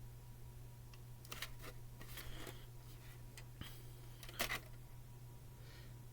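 A VHS tape and its plastic case handled by hand: a few faint clicks and short rustles, the loudest about four and a half seconds in, over a steady low hum.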